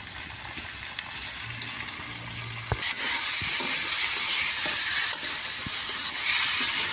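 Goat meat and masala sizzling in a hot steel karahi over a wood fire while being stirred with a spatula. This is the kosha frying stage, just after the salt goes in. The sizzle gets louder and brighter about three seconds in, with a sharp click just before.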